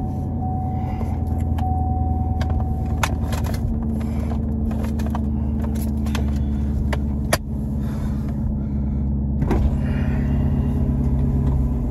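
Chevrolet Camaro engine idling with a steady low drone, heard from inside the cabin. A chime tone repeats during the first few seconds. Clicks come as the seatbelt is pulled across and fastened, the sharpest about seven seconds in, and a thump comes near the ten-second mark, after which the idle note shifts.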